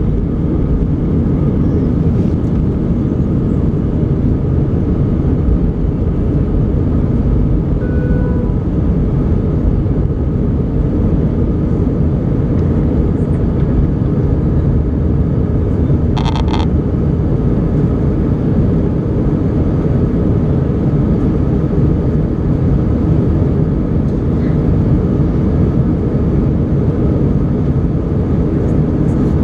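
Steady low rumble of an Airbus A320 heard from inside the cabin around takeoff: engine and airflow noise. A brief high chirp cuts through about sixteen seconds in.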